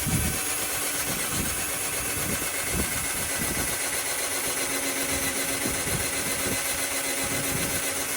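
Budget cordless drill running steadily while boring a pilot hole for a self-tapping screw, then cutting off sharply near the end.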